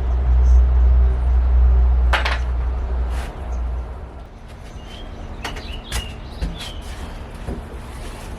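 A low rumble for the first three seconds or so, then scattered knocks and clicks of hands and tools working on the boards and screws of a makeshift porch structure being taken apart.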